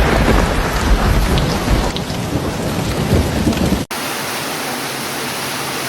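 Heavy rain with a low rumble of thunder, then about two-thirds through an abrupt cut to a steadier hiss of rain or running water without the rumble.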